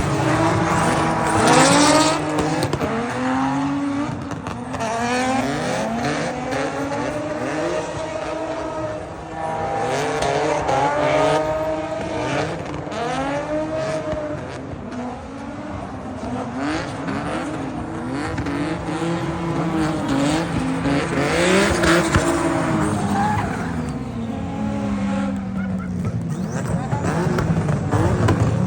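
Car drifting and doing donuts: the engine revs up and down over and over while the tyres squeal and skid.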